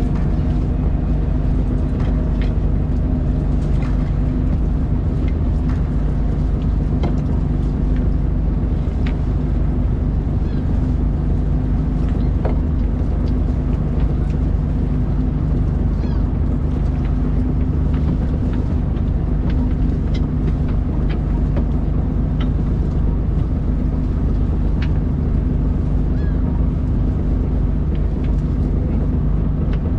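A fishing boat's engine running steadily with an even low drone, with scattered light clicks and knocks over it.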